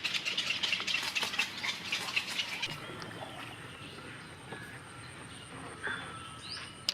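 Wetland birds calling: a fast run of clicking chatter for the first few seconds, then fainter scattered calls and a thin, steady high tone.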